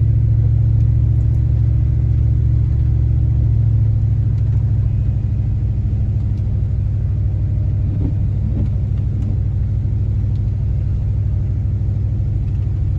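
Steady low rumble of a car driving along a road, engine and tyre drone, with the level easing slightly toward the end.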